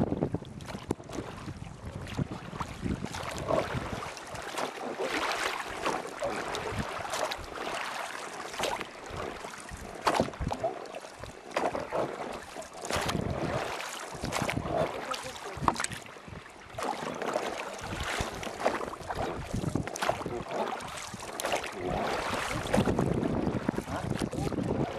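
Wind buffeting the microphone over river water: an irregular, gusty rush with scattered knocks and no steady engine note.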